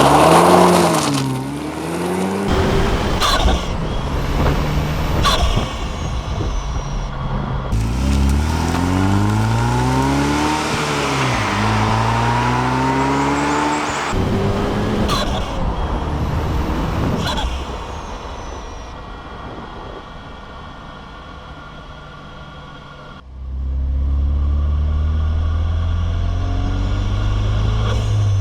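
2007 Saturn Sky Redline's factory turbocharged 2.0-litre four-cylinder under way, its note rising and falling repeatedly as it revs through the gears, with intake and turbo noise. It then runs quieter for a few seconds before a louder, steady, low engine note cuts in suddenly about 23 seconds in.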